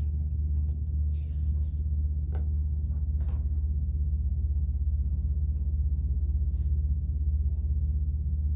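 Steady low electrical-sounding hum throughout, with a few soft rustles and light clicks in the first few seconds as yarn is handled and pulled tight into a knot.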